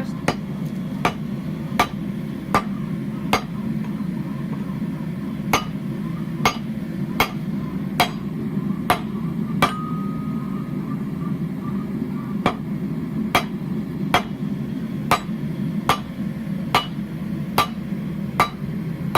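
Hand hammer striking hot steel laid over a hot cut hardy in the anvil, cutting the end off a bar: about twenty sharp metallic blows, roughly one a second, with two short pauses. A steady low rumble from the running gas forge sits underneath.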